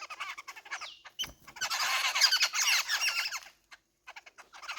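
Birds at a feeding spot calling over one another: scattered chirps, then from about a second and a half in a dense chorus of quick overlapping calls for about two seconds. A single sharp knock comes just before the chorus.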